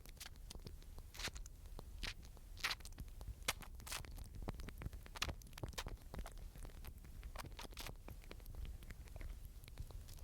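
Close, irregular clicks, scratches and scrapes, typical of a small animal feeding or scrabbling right by the microphone, over a steady low rumble.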